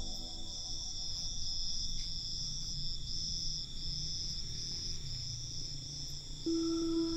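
Crickets chirping in a steady, pulsing high trill. Soft ambient music fades out in the first seconds, and a held synth note comes in near the end.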